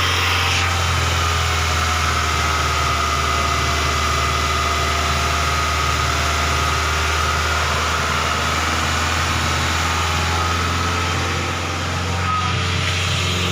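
SsangYong Rexton engine idling steadily, with a constant low hum and a steady high whine above it, while an engine-cleaning liquid is drawn in through an intake vacuum hose.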